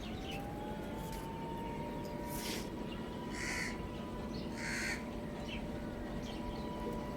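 Birds calling: three loud, harsh calls about two and a half, three and a half and five seconds in, with a few fainter ones after. Underneath is a steady low hum and a thin steady whine.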